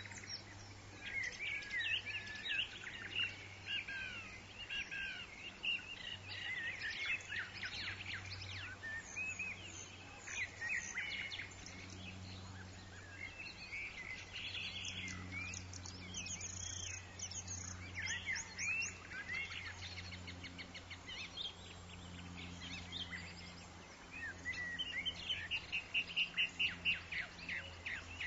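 Forest bird chorus: many birds chirping and calling at once with short sweeping whistles, and a fast even trill near the end. A steady low hum runs underneath.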